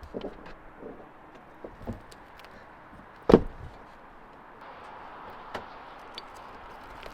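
A door shutting with one sharp, loud thud about three seconds in, among a few small clicks and knocks of handling.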